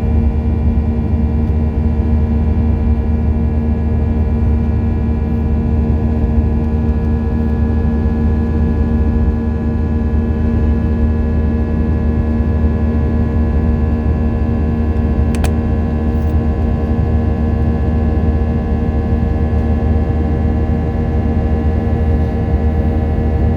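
Aircraft engines droning steadily inside the passenger cabin: a loud low hum with many steady tones above it. A single click comes about fifteen seconds in.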